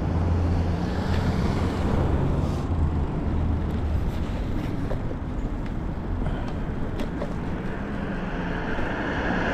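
City traffic with wind on the microphone: a low steady engine hum from a nearby vehicle, strongest in the first few seconds, over a constant road and wind noise.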